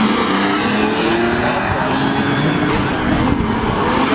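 A loud car engine revving and accelerating, its pitch rising and falling.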